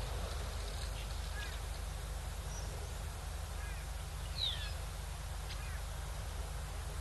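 Wild birds calling at a waterhole: a few short high chirps, with one clearer falling whistle about four seconds in. Under them run a steady low hum and an even outdoor hiss.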